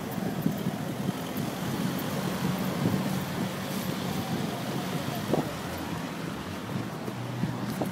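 Mercedes-Benz SL 55 AMG's V8 engine running as the car drives on, a steady low engine note over street noise, with a few short knocks.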